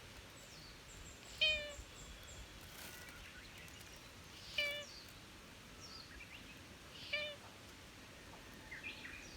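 Black cat giving three short meows, about two and a half seconds apart.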